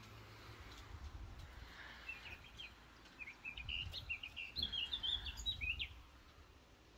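A small songbird singing: a quick run of short chirping, sweeping notes from about two seconds in until about six seconds, over a faint low rumble.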